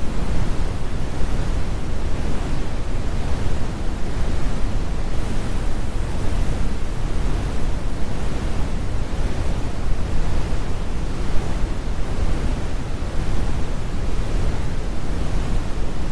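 Steady brown noise: an even, unchanging rumble strongest in the low end, with the highs rolled off.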